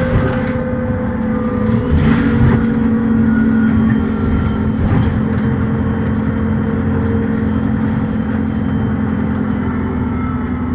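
Dennis Trident ALX400 double-decker bus's replacement diesel engine running steadily under way, heard from on board. A few brief knocks sound through it, about two and five seconds in.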